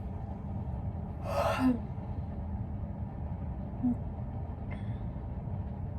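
A person's breath drawn in sharply, once, about a second in, over a steady low room hum.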